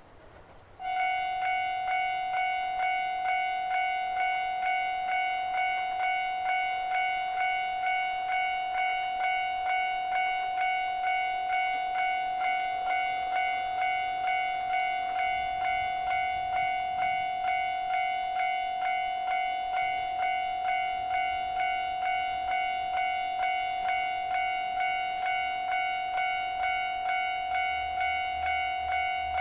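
Electronic level crossing warning bell starting suddenly about a second in and ringing in a steady, even rhythm of nearly two clangs a second, each clang fading before the next. This is the signal that a train is approaching the crossing. A faint low rumble joins near the end.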